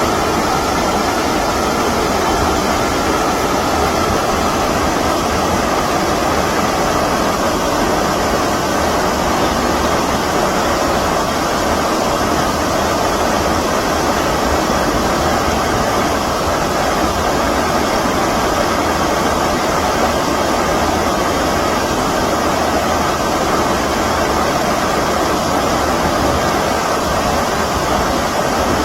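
Steady rushing of stream water, an even unbroken noise.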